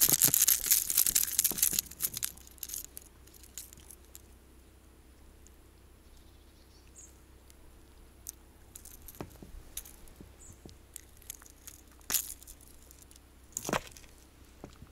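Close rustling and crackling handling noise for about two seconds, then scattered clicks and taps, with two sharper knocks near the end, as a just-caught small chub and the lure are handled.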